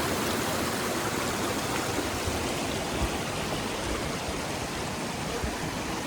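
Fast-flowing water rushing steadily, as of a waterfall and its mountain stream, with a brief low bump about three seconds in.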